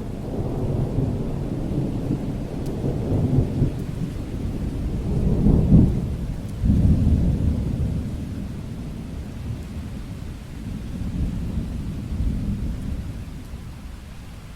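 Thunder rumbling over steady rain, swelling to its loudest about six seconds in, surging once more just after, then rolling away and fading toward the end.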